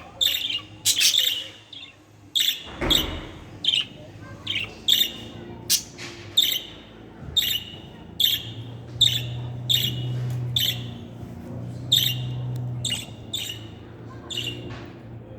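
Budgerigar giving short, high chirps over and over, a little more than once a second. A dull thump comes about three seconds in, and a low hum runs for a few seconds in the second half.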